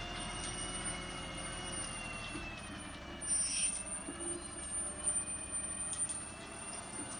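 A vehicle running steadily, with a low rumble and a thin steady whine, and a short hiss about three seconds in.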